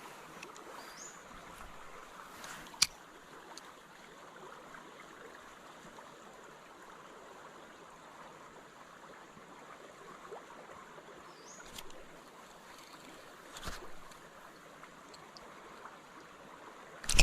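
Creek water running steadily, with a single sharp click about three seconds in and a few fainter knocks later.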